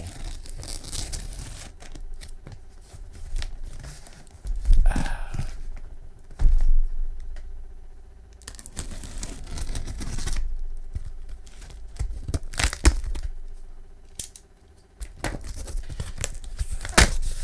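Cardboard box being cut open with a knife and its packing tape torn, with crinkling of the packaging and irregular scrapes and sharp knocks as it is handled.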